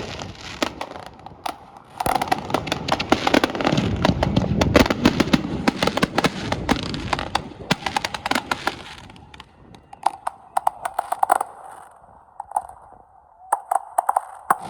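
Fireworks going off: dense rapid crackling and popping with a deep boom about four seconds in, thinning to scattered pops in the second half.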